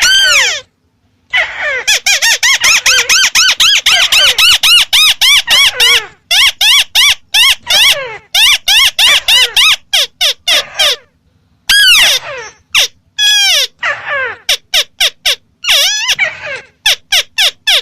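White-browed crake (Amaurornis cinerea) calling: loud, rapid runs of chattering notes, each rising then falling in pitch, about six a second, broken by several short pauses.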